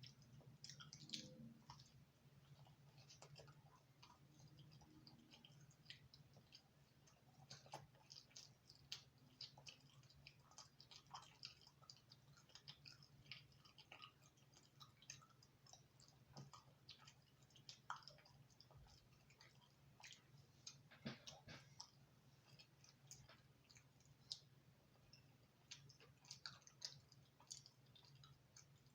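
Faint, close-up chewing of thin crispy-crust pizza: scattered small wet mouth clicks and crunches over a steady low hum.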